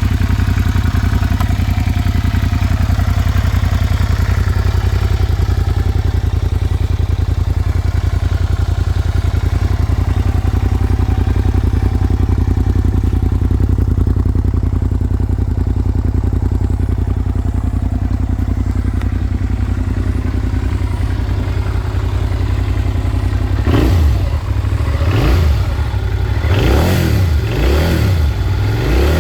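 2011 Suzuki SV650S's V-twin engine idling steadily while warming up from a cold start, then revved in about five quick throttle blips near the end.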